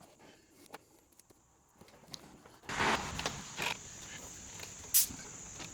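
Hand-working noises from routing a wire harness behind trunk trim: rustling and scattered clicks, with a louder rustle about three seconds in and a sharp click about five seconds in.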